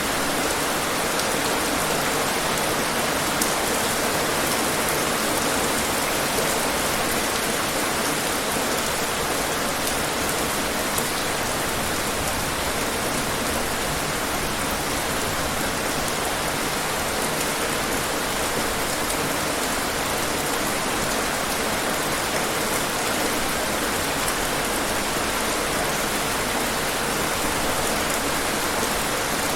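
Steady rain falling on hard surfaces, an even hiss with scattered drop taps.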